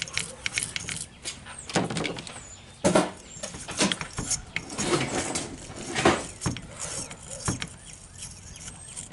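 Hand tools scraping and scrubbing old gunk out of a cast carburetor body, with irregular scratchy strokes and sharp clicks of metal against metal.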